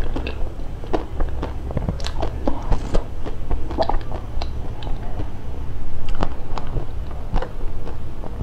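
Close-miked chewing: a person working a mouthful of food, with many small wet smacks and clicks at an uneven pace.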